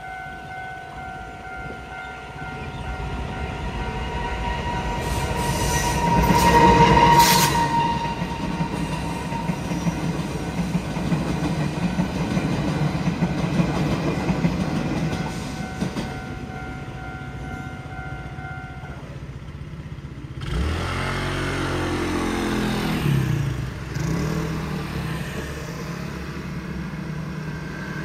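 A Taiwan Railway train passes over a level crossing with its wheels clattering, and the crossing's warning signal rings steadily throughout. The train's horn sounds loudly about a quarter of the way in. The warning signal stops about two-thirds of the way through, and motor scooters then pull away across the tracks.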